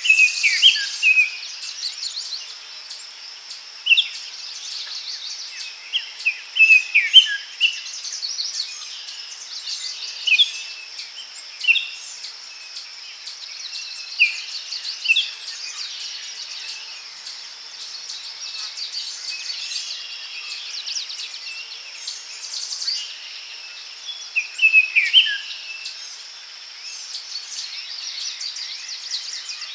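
Daytime forest ambience: a steady high insect drone with a regular fast ticking above it, and birds calling on and off in short falling whistled notes, busiest near the start and again later on.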